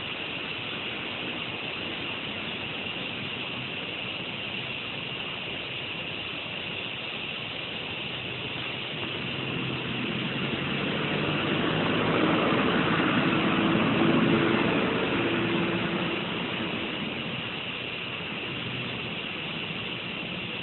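Cicada shrilling in a steady, dense, high buzz; the uploader wonders whether it is a minmin-zemi (robust cicada). In the middle, a lower rumbling sound swells up for several seconds and fades again.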